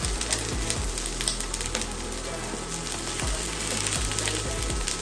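Cauliflower and onion sizzling in hot oil in a nonstick wok as they are stirred, with a steady hiss and scattered light clicks.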